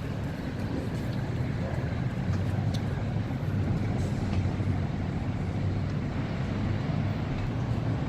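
Steady low engine rumble with a constant hum, growing a little louder about two seconds in.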